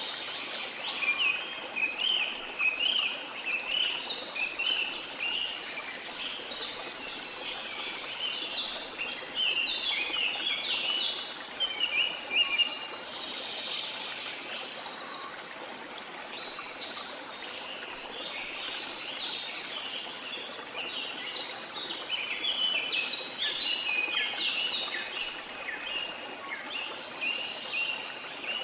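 Songbirds chirping in quick runs of short high notes over the steady rush of falling water. The birdsong thins out in the middle and picks up again for the last several seconds.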